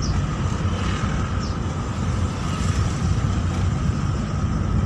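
A car driving along, heard from inside the cabin: a steady low rumble of engine and road noise with a faint steady whine above it.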